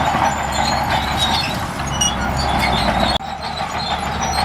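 Diesel engine of heavy earthmoving equipment running under steady load, with a sudden break about three seconds in, after which a similar machine noise carries on.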